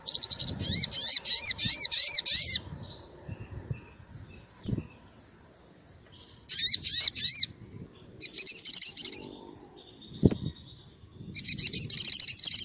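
Sogon sunbird singing in four bursts of rapid, high, sharp chirping trills with short pauses between. A sharp knock sounds in the first pause.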